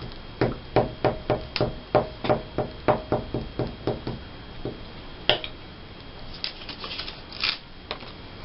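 Scissors cutting paper: about a dozen quick snips at roughly three a second, then a single sharp click and a few light rustles near the end.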